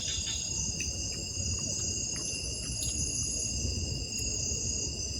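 Steady chorus of insects, several high-pitched trills held at different pitches without a break, over a low rumbling background noise.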